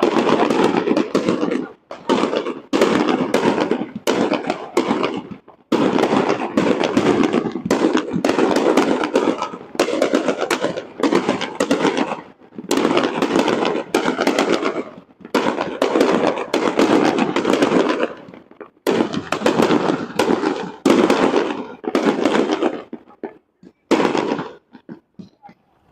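Aerial fireworks display: rapid volleys of bangs and crackling lasting a few seconds each, broken by short pauses, then thinning to scattered pops near the end.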